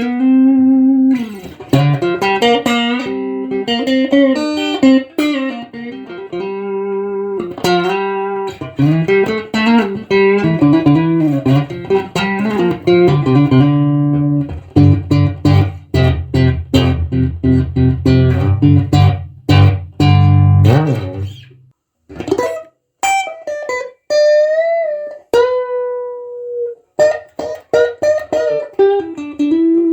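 A 1976 ash-body Stratocaster-style electric guitar played solo through an amplifier. It plays melodic single-note lines with string bends, then about fifteen seconds in a run of repeated rhythmic chords for several seconds, then sparse held notes with bends and vibrato.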